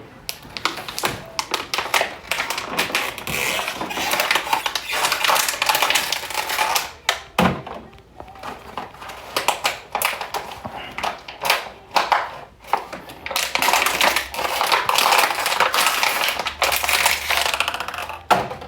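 Plastic water bottles being squeezed and crinkled by hand: a dense crackling in long runs, broken by two short pauses.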